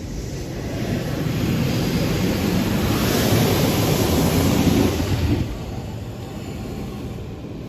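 Automatic car wash spraying water jets against the car, heard from inside the cabin: a rushing hiss that builds, peaks, then drops off sharply about five and a half seconds in.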